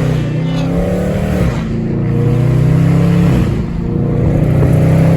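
Loud car engine and exhaust from a Dodge Charger, pulled hard in about three long stretches, each dropping off briefly before the next.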